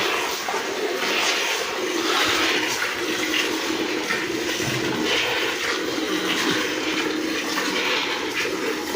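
A cow being milked by hand: jets of milk squirting into a pail, a hiss that swells and fades over and over.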